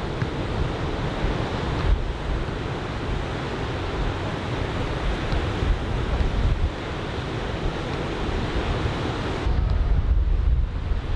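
Waves from a head-high typhoon swell breaking on the beach, a steady wash of surf, with wind buffeting the microphone, heavier near the end.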